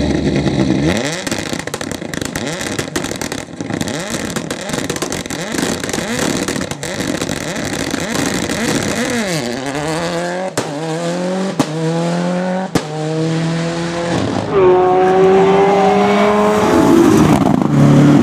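Ford Escort rally car's turbocharged four-cylinder engine being driven hard. Its pitch swings up and down over and over, then climbs through several quick upshifts with a sharp crack at each change, and is held high near the end.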